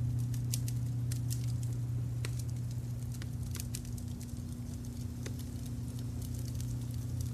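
Wood fire crackling, with irregular sharp pops and snaps scattered through, over a steady low rumble from a brown-noise layer.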